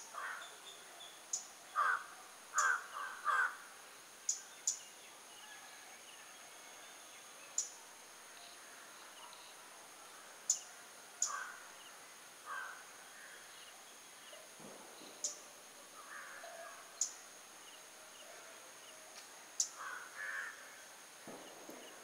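Birds calling outdoors: short harsh calls, some single and some in quick runs of two or three, with sharp high ticks scattered between them over a faint steady high-pitched hum.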